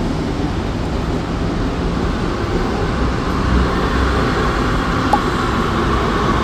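Panama Metro train running: a steady rumble and rushing noise, with a whine that builds in the second half.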